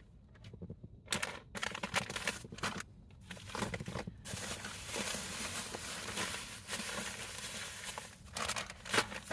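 Crinkling, rustling and tearing of packaging being handled: a few separate crackles at first, then several seconds of near-continuous rustling, then a few more crackles near the end.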